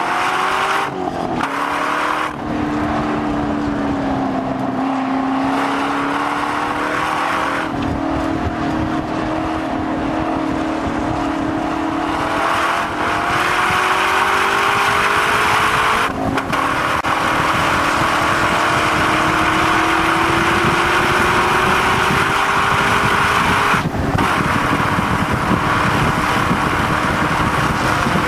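Chevrolet Corvette C6 V8 running hard under acceleration on a race track, its pitch climbing slowly through a long pull, with brief breaks in the engine note about a second in, about halfway through and near the end, typical of upshifts. Wind and tyre noise run underneath.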